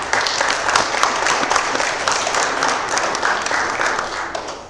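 Congregation applauding, a dense clatter of many hands clapping that fades away near the end.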